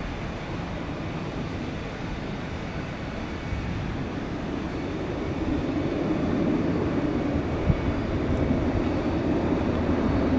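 Jet airliner engines rumbling at an airport, growing slowly louder through the second half as the aircraft comes closer.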